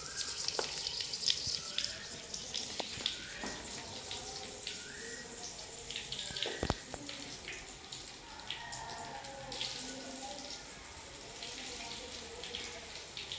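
Besan-and-egg-coated okra frying in hot ghee in a metal kadai: a steady sizzle, with scattered clinks and scrapes of tongs and a spoon turning the pieces.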